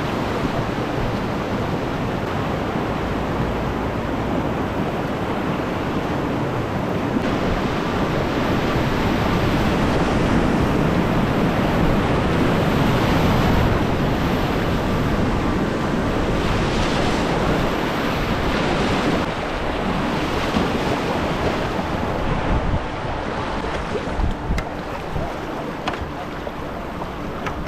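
Rushing whitewater of river rapids, a steady rush of water that grows louder toward the middle and eases off near the end, with some wind on the microphone.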